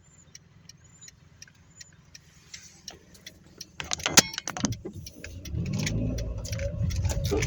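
Inside a car: the turn signal ticks steadily at first, a brief loud clatter comes about four seconds in, then the engine pulls away, its low rumble rising in pitch and growing louder.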